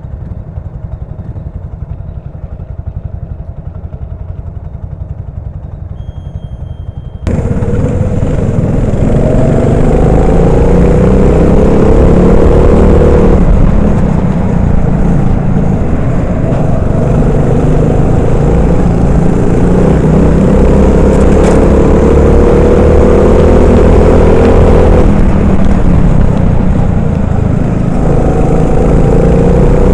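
Honda GX390 single-cylinder four-stroke kart engine, heard from the driver's helmet. It runs steadily at low revs for about seven seconds. Then it suddenly goes loud under full throttle in the wet, the pitch climbing for several seconds and falling back as the driver lifts, twice, with a third climb near the end. A strong hiss of wind and wet spray runs under it.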